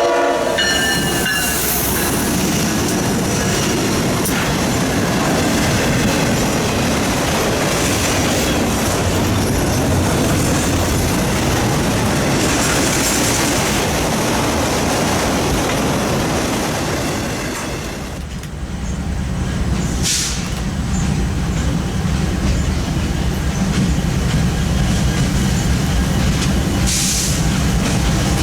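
Freight train rolling past: the tail of its horn cuts off at the start, then a long stretch of wheels and cars running by with brief wheel squeal. About two-thirds of the way in the sound dips and gives way to a steadier low rumble.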